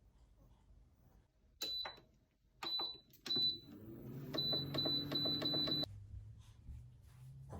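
An electronic appliance beeps three times as its buttons are pressed. Its motor then hums, rising in pitch as it spins up, while a quick run of about five more beeps sounds, and everything stops abruptly.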